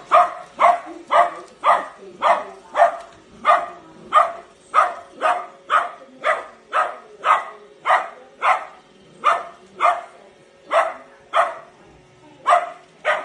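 Small Shiranian dog (Shih Tzu–Pomeranian mix) barking over and over in a steady rhythm, about two barks a second, with a faint steady hum underneath.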